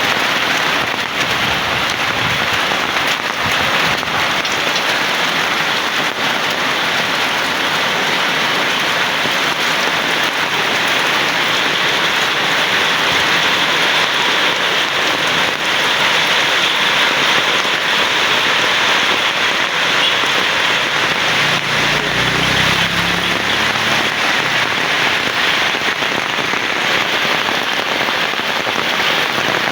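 Heavy rain falling in a loud, steady hiss. A brief low rumble comes about two-thirds of the way through.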